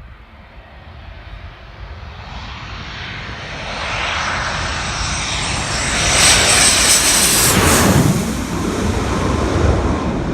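Military fast jet's engines growing steadily louder as the jet approaches, loudest about six to eight seconds in with a high whine over the noise, then easing slightly as it passes.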